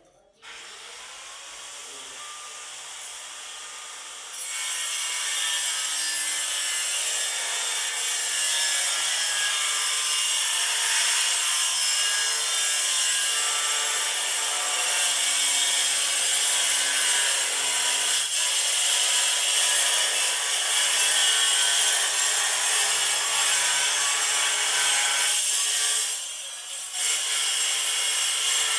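A power tool running steadily under load, cutting or abrading material. It gets louder about four seconds in and dips briefly near the end.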